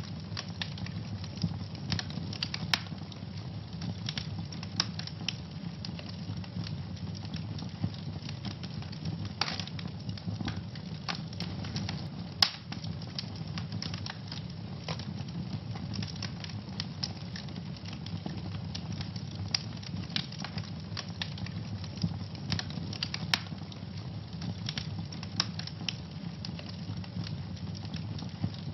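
Wood fire burning in a fireplace: a steady low rumble of flames under constant irregular crackling, with occasional louder pops.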